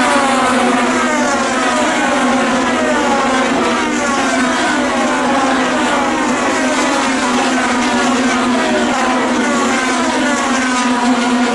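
IndyCar race cars' engines running at high revs as the cars pass one after another, each one's whine falling in pitch as it goes by.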